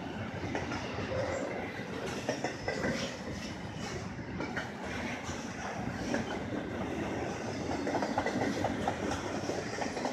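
Double-stack intermodal freight train rolling past, its steel wheels clacking over the rail joints.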